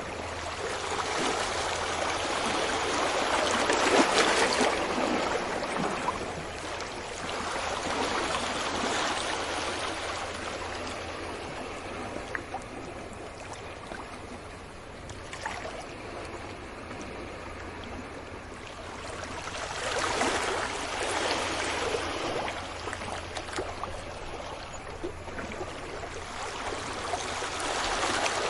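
Sea waves washing on a beach: a steady hiss of surf that swells into two larger breaking waves, about four seconds in and again around twenty seconds in, easing off between them.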